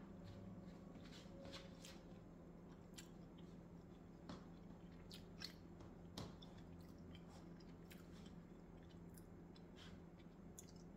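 Near silence with a person quietly chewing a soft pancake: faint, scattered mouth clicks over a low steady hum.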